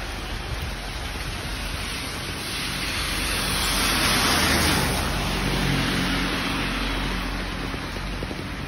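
Heavy rain pouring steadily onto a wet street and pavement. Near the middle a passing vehicle on the wet road swells up over the rain with a low engine hum, then fades.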